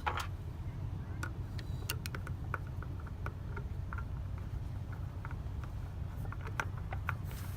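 Small scattered clicks and taps of hand work fastening tiny screws into a plastic weatherproof faceplate, over a steady low rumble.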